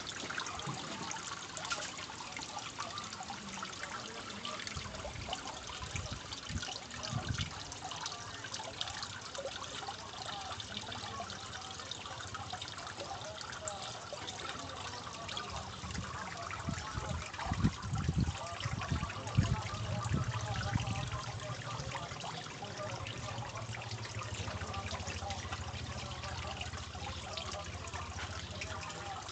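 Water trickling steadily from a homemade water fountain added to a fish tank. A few low bumps come through, the loudest about two-thirds of the way in.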